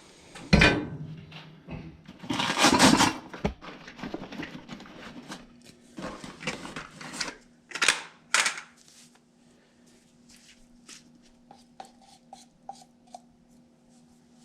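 Hard objects being handled: a run of knocks, clatter and scraping that dies down after about nine seconds, leaving a faint steady hum with a few light ticks.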